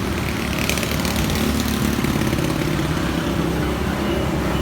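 A motor or engine running steadily with a low hum, with a few faint clicks about a second in.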